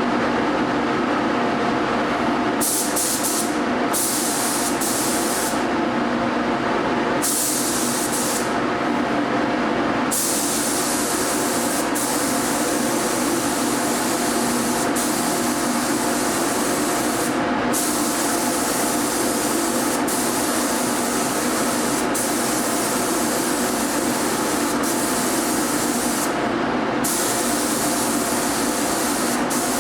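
Air-driven paint spray gun hissing steadily as paint is sprayed, the highest part of the hiss cutting out briefly several times.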